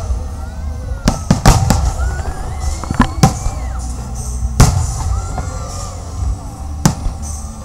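Aerial fireworks bursting in a display, seven sharp bangs spread irregularly over a few seconds with a steady low rumble between them.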